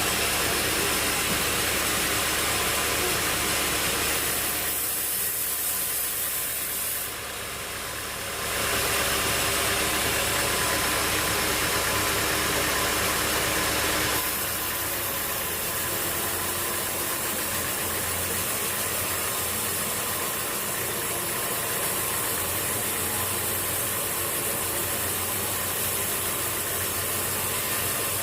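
Sawmill machinery running steadily, an engine hum under a dense mechanical noise. The sound eases for a few seconds about five seconds in and shifts slightly about fourteen seconds in.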